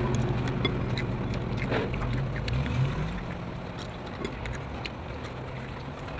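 A motor vehicle engine running steadily, rising in pitch about three seconds in and then fading away, with scattered small clicks over it.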